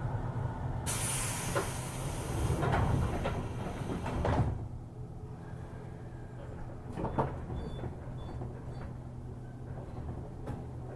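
JR 205-series commuter train's pneumatic doors closing: a loud air hiss with a few knocks, ending in a thud about four and a half seconds in. Afterwards the stopped train's equipment hums steadily.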